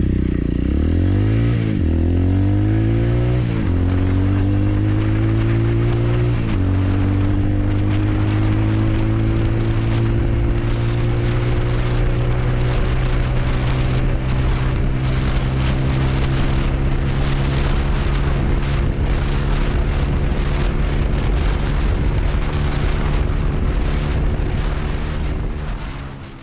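A 125 cc pit bike's single-cylinder four-stroke engine at full throttle, revving up and dropping back at each upshift, three times in the first seven seconds. It then pulls slowly higher in top gear, straining against a headwind, until the sound cuts off near the end.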